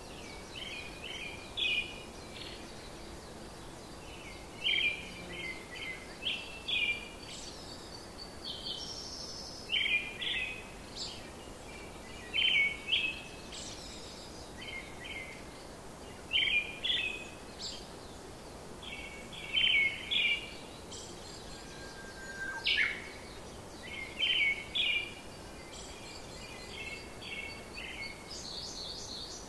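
Small birds chirping in short runs of quick, repeated notes every second or two, over a steady hiss.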